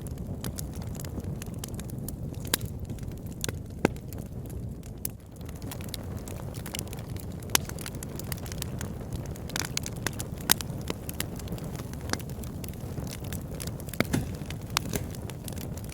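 Wood fire burning in a fireplace: a steady low rumble of flame with irregular sharp crackles and pops, a few of them markedly louder.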